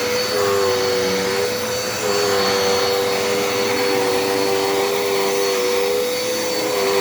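Dirt Devil Endura Reach vacuum cleaner running with a steady whine; a slightly lower tone in its hum sags and recovers a few times.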